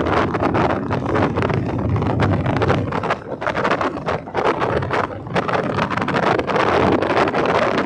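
Wind buffeting the microphone of a moving vehicle, over a steady low rumble of engine and road noise.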